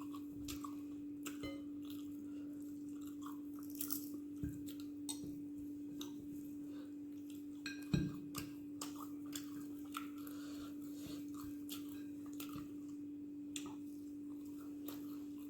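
A person chewing dosa with chutney and curry close to the microphone, with small wet mouth clicks over a steady low hum. A single louder knock comes about eight seconds in.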